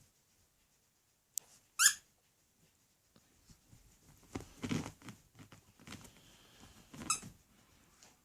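Squeaky pet toy being squeezed: one loud squeak about two seconds in and a second, weaker squeak near the end, with rustling and soft knocks of the toy being mouthed or handled in between.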